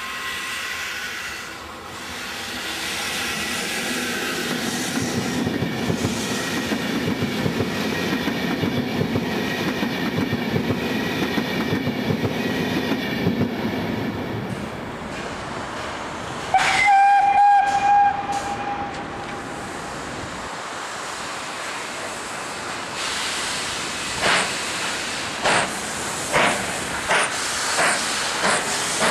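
An E.464 electric locomotive and Vivalto double-deck coaches run past with a steady rumble of wheels and motors. About halfway through, a locomotive whistle sounds loudly for about two seconds, and from about 23 seconds in the Gr.625.100 steam locomotive's exhaust puffs come roughly once a second as it works slowly along with its train.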